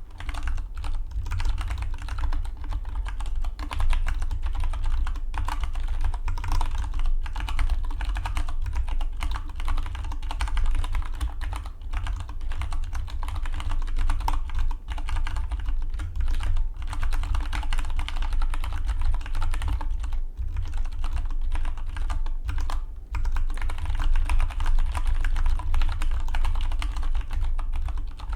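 Fast, continuous typing on a Dygma Defy split mechanical keyboard: a dense stream of key clicks, broken only by a couple of very brief pauses.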